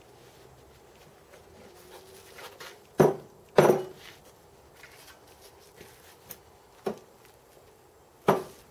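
Four hard knocks and clunks with a short ring, two loud ones close together about three seconds in and two more near the end, from handling a freshly cast, still-hot piece and its mould.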